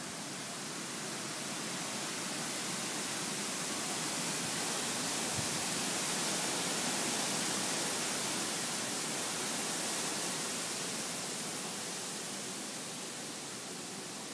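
Autumn wind blowing, a steady airy hiss that swells slowly to its strongest about halfway through and then eases off.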